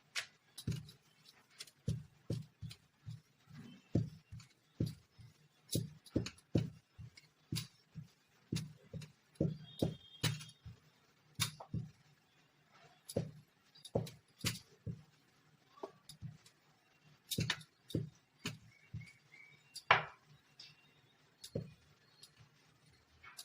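Rolling pin working dough on a rolling board, with irregular knocking and clacking strokes, about one or two a second.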